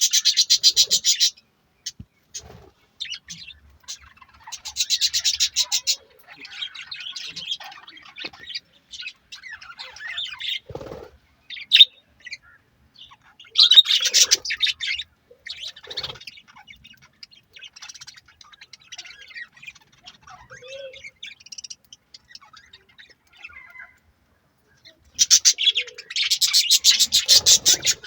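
Budgerigars chirping and chattering: loud bursts of rapid, repeated chirps come four times, with quieter, broken warbling chatter in between.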